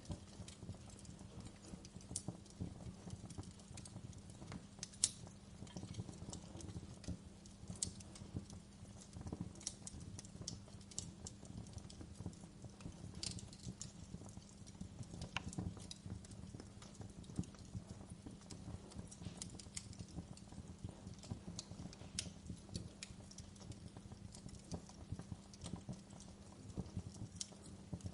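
Wood logs burning in a fireplace: a steady low rumble of flame with frequent sharp crackles and pops, one louder pop about five seconds in.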